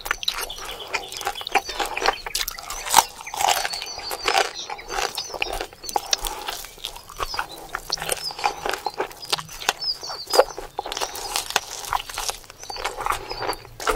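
A person chewing and biting cooked meat off a cow leg bone close to the microphone: dense, irregular crunching and clicking mouth sounds.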